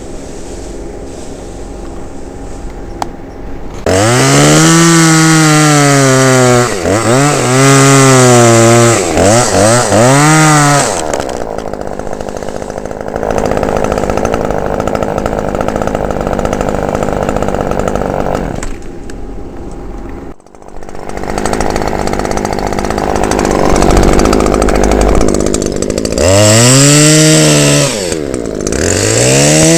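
Chainsaw idling, then revved up and down several times before running steadily under load while cutting through beech wood. The saw dips briefly about two-thirds of the way through, then keeps cutting and is revved again near the end.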